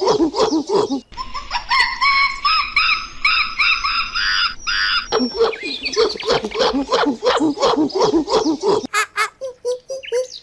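Animal calls repeated several times a second, in segments that change abruptly about a second in, about five seconds in and near the end. The stretch from about one to five seconds is higher-pitched chirping.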